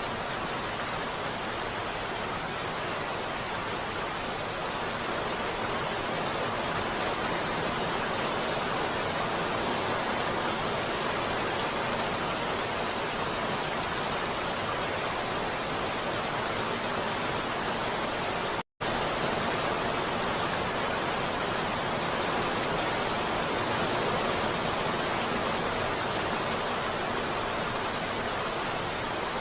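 Heavy rain falling, a steady, dense hiss with no distinct drops or thunder. It cuts out for a split second about two-thirds of the way through, then resumes as before.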